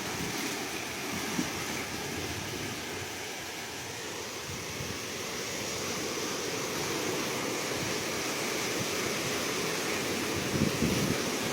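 Ocean surf washing steadily, swelling louder and rougher near the end.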